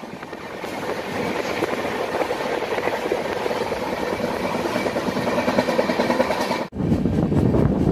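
Passenger train running at speed, its wheels rumbling on the rails in a steady rushing noise. Near the end the sound breaks off for an instant and comes back as a louder, deeper rumble.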